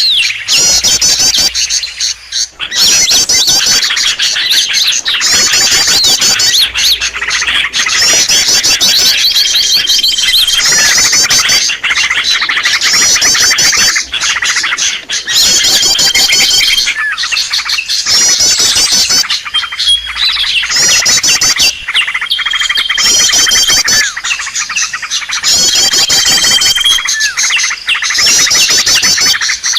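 Small songbirds calling in a bird-lure (pikat) recording: rapid high trills repeat every two to three seconds, many of them followed by a short, steady whistled note, over a constant chatter of chirps.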